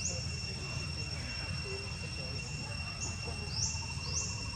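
Steady high-pitched drone of crickets or other insects, with a few short rising chirps over it and a low rumble beneath.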